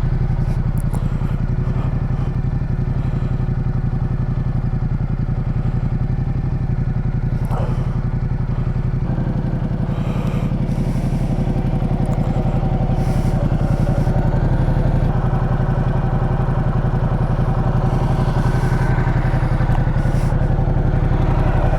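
Ducati Multistrada 1200's V-twin engine idling steadily, with an even, unbroken beat.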